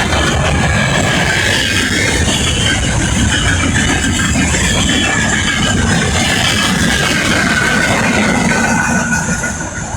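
Freight train hauled by a VL80K electric locomotive rolling past: a loud steady rumble of wheels on rail with a thin, wavering high whine, getting quieter about nine seconds in.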